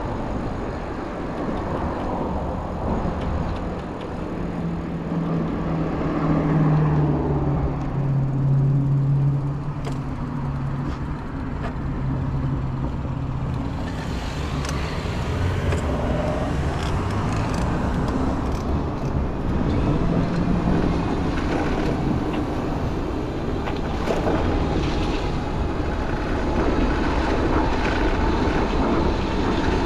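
City street traffic heard from a bicycle: a steady wash of road noise from passing motor vehicles, with a low engine hum from about four to thirteen seconds in.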